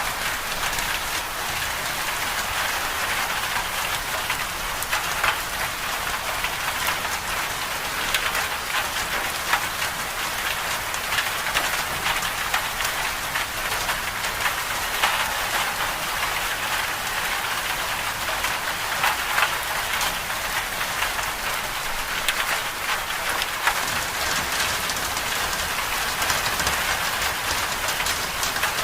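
Winter-storm ambience: a steady, dense hiss of precipitation pattering on a surface, dotted with many small ticks.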